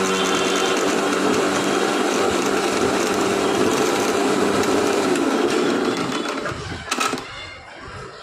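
Electric mixer grinder motor running at speed, then slowing and winding down from about five seconds in, with a sharp click about seven seconds in.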